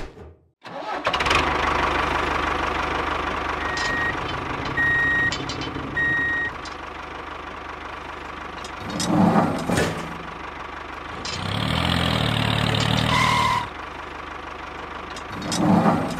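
Tractor engine idling, with three short reversing beeps about four to six seconds in. The engine sound drops back after that, with a thump about ten seconds in, and comes up again for a couple of seconds near the end.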